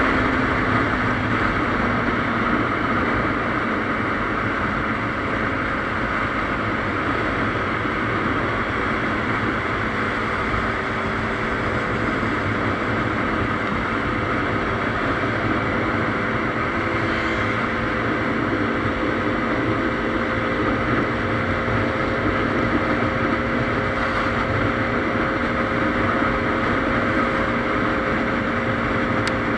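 KTM Duke 390's single-cylinder engine running at a steady cruising speed, its pitch drifting only slightly, under a constant rush of wind and road noise.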